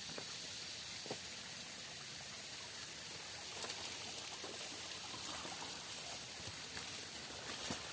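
Steady hiss of water in a forest, like a trickling stream or falling rain, with a few faint clicks and knocks.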